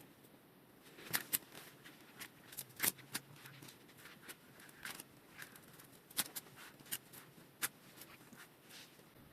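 Irregular light clicks and clinks of a rusty bicycle chain being handled while it is disconnected and removed, about a dozen sharp ticks spread unevenly.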